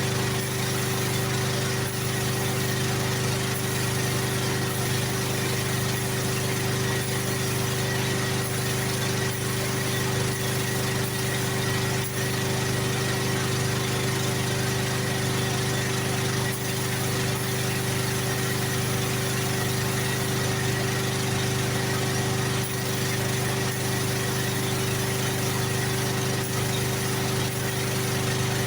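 Portable generator engine running steadily at constant speed, a loud even hum with a constant hiss over it.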